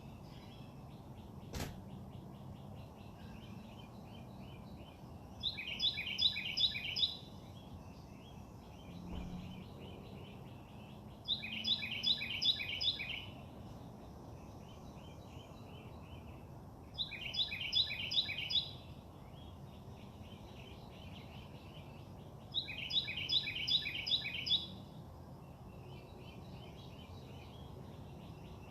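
A songbird singing the same short phrase of rapid repeated notes four times, about every six seconds, over a steady low background hum, with one sharp click about a second and a half in.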